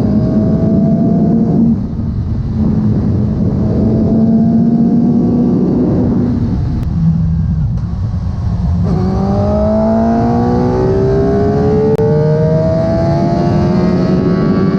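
Suzuki GSX-R1000 K7's inline-four engine through its stock exhaust, revving up under acceleration. The pitch climbs, drops at an upshift about two seconds in, climbs again, drops at another shift around nine seconds in, then rises once more.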